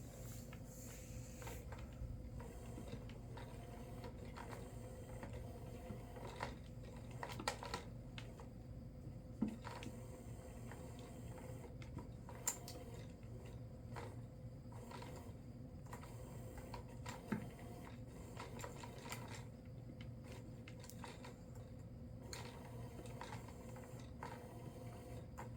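A kitten playing with a toy: scattered light taps and clicks with a few sharper knocks, over a steady low hum.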